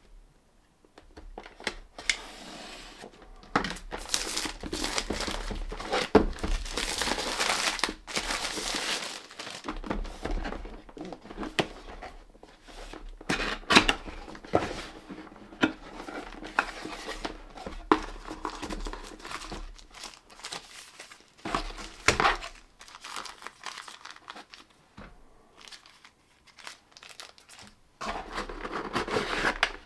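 Packaging being unwrapped by hand: plastic wrap and paper crinkling and tearing, in irregular stretches, with scattered sharp knocks and clicks as the packed parts are handled.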